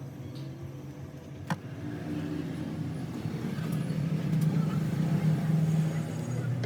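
A motor vehicle engine running steadily, its low hum growing louder from about two seconds in. There is a single sharp click about one and a half seconds in.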